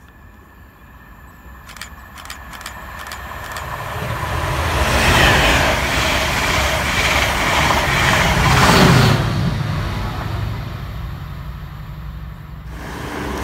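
A silver Chiltern Railways Mk3 passenger set approaches and passes at speed, driving van trailer leading. The rumble and rush of wheels on rail build over about four seconds and stay loud for about five. Near the end of the loud part the Class 68 diesel locomotive's engine passes, pushing at the rear, and then the sound fades away.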